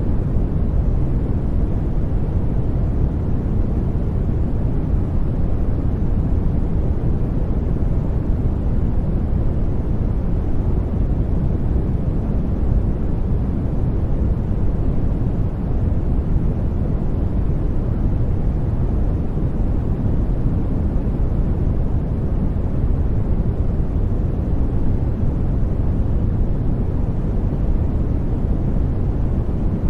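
Steady sleep noise track: an even, unbroken rushing noise weighted deep and low, with little hiss on top and no change throughout.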